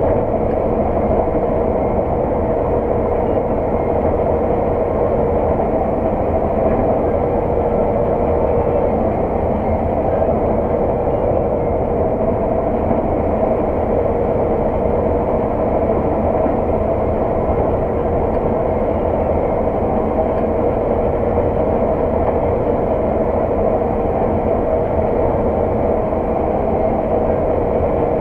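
Claas 600 TT combine harvester running steadily under load while combining oilseed rape, probably heard from inside the cab: an unbroken mechanical drone with a constant hum and no change in pitch or level.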